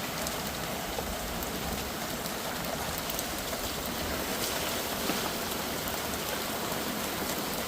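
Heavy rain pouring down steadily, an even hiss of drops hitting the ground and puddles, with scattered individual drop ticks.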